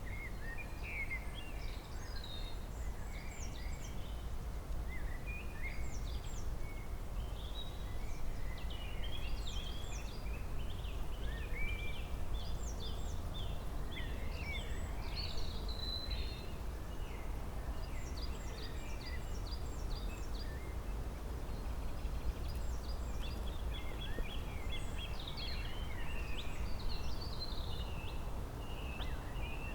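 Several songbirds singing and chirping at once, with overlapping trills and quick repeated high notes throughout, over a steady low background rumble.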